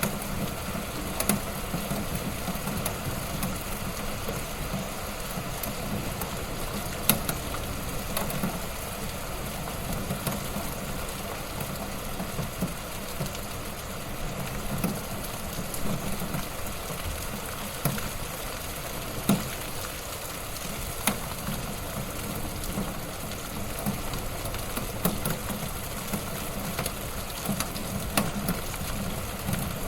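Wood fire burning in a fireplace: a steady hiss and low rumble with irregular crackles and sharp pops, two of them louder, about seven and nineteen seconds in.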